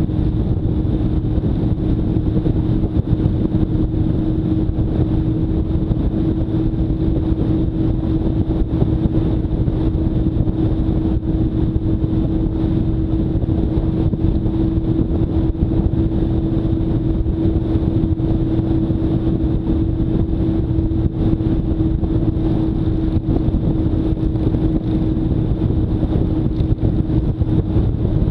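Motorcycle cruising at a steady speed, its engine holding one even note under heavy rumble and wind noise on the microphone.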